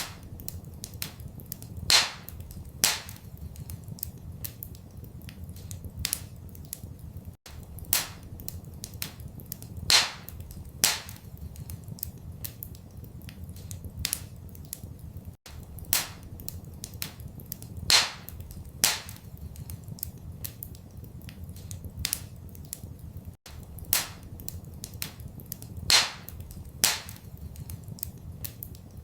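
Wood fire in a fireplace crackling, with a loud pop about every eight seconds over a steady low rumble. The same crackle pattern repeats every eight seconds as a loop, with a brief dropout at each join.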